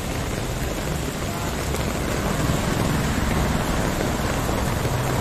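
Heavy rain falling steadily, with a low rumble building in the middle.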